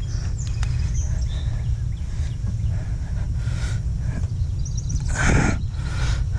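A cloth rubbing wax over a truck's painted panel, heard as soft swishes under a steady low rumble, with a louder breathy swish about five seconds in.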